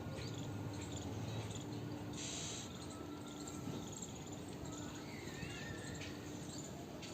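Small birds bathing: faint scattered chirps and calls over a steady background hum, with a brief splash of water about two seconds in.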